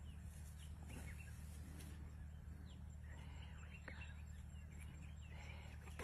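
Faint, scattered short bird chirps over a steady low hum.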